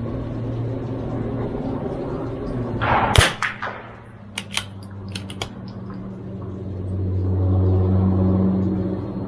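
A single .22LR shot from a CZ 457 MTR bolt-action rifle about three seconds in, followed by a run of sharp metallic clicks as the bolt is worked to eject the case and chamber the next round. A steady low hum runs underneath, growing louder near the end.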